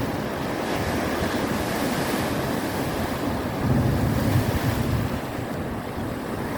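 Ocean waves breaking and washing on the shore, with wind buffeting the microphone; a wave surges louder about three and a half seconds in.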